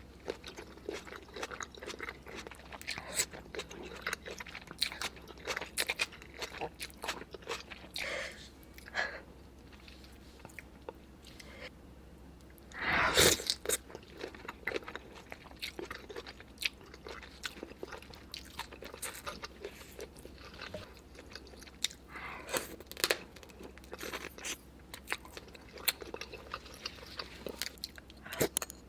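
Close-miked eating: a person chewing and biting seafood, with many small crunches and wet clicks and one louder, longer noise about 13 seconds in.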